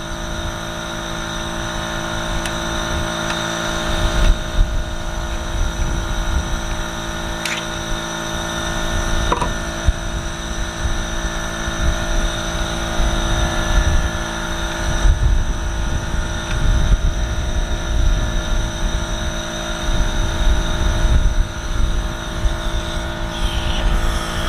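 A steady machine hum made of several fixed tones over an uneven low rumble, with a couple of small clicks about a third of the way in.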